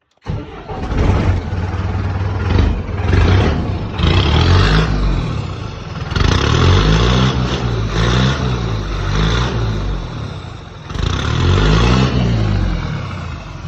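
Mercedes Vario diesel engine starting and being revved repeatedly through a straight-through exhaust pipe with no silencer box, loud and tractor-like, then settling to idle near the end.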